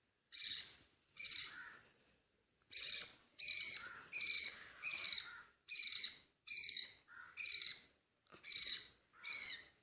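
Budgie chicks giving their raspy begging calls while being hand-fed formula: about eleven short, harsh cheeps in a row, each around half a second long, with short gaps between them.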